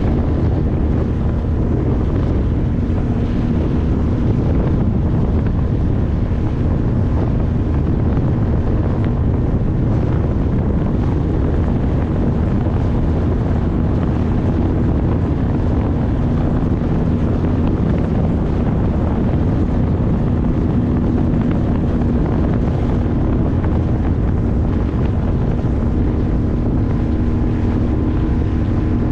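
A small boat's 9.8 HP outboard motor running steadily under way, with a constant drone, and wind buffeting the microphone throughout.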